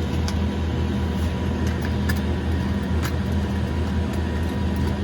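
Cessna 208B Grand Caravan EX's single Pratt & Whitney PT6A-140 turboprop running steadily at low power, heard from inside the cabin as a constant deep drone with a steady higher whine.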